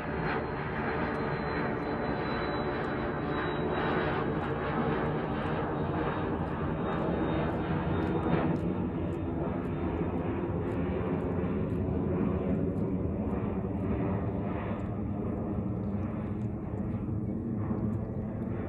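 An airplane flying overhead: a steady engine drone with a faint high whine that slowly drops in pitch during the first half, the upper part of the sound fading out toward the end as it moves away.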